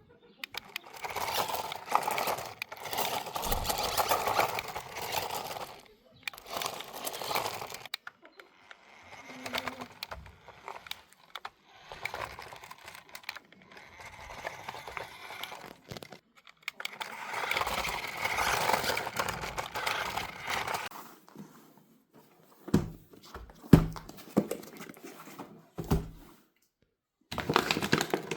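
Crinkling and rustling from things being handled, in stretches with short pauses, and a few sharp knocks near the end.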